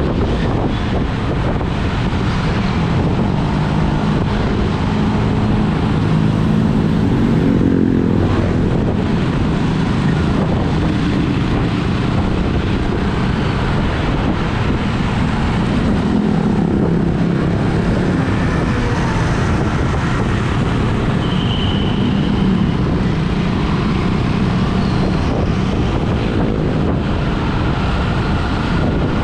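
A vehicle's engine running steadily with road noise while on the move.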